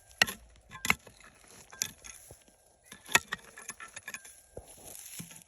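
Stones clicking and knocking against each other, a few sharp irregular knocks with the loudest about three seconds in, then a soft scuffing rustle near the end.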